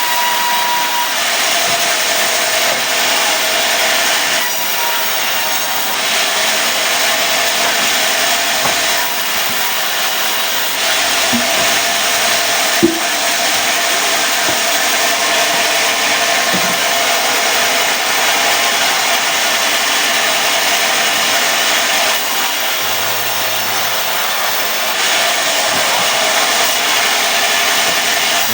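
Sawmill blade cutting lengthwise through a mahogany log to saw off boards, a steady loud rasping whine, with one sharp knock about halfway through.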